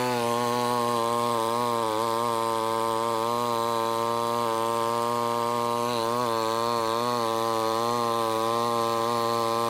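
Stihl MS 881 chainsaw's big single-cylinder two-stroke engine running steadily at high revs while sawing through a large log, its pitch wavering slightly as the load changes.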